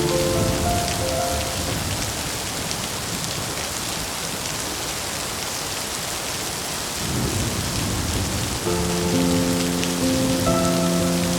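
Steady rain falling, with a low roll of thunder building about seven seconds in. Soft held music notes fade out at the start and come back near the end.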